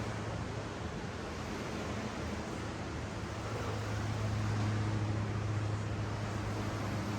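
Steady wash of ocean surf with a constant low mechanical hum underneath.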